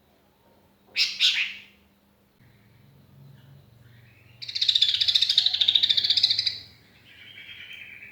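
Sooty-headed bulbul calling: a short double note about a second in, then a long, fast, loud chattering trill from about halfway, followed by a softer, lower rattle near the end.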